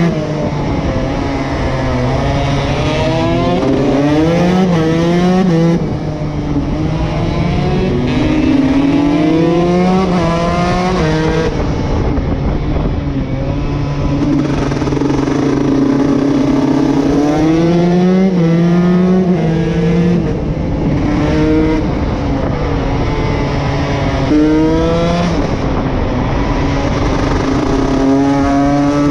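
Single-cylinder two-stroke engine of a KTM SX 150 motocross bike, ridden hard. The pitch climbs under throttle again and again and drops back at each shift or roll-off, over a steady rush of noise.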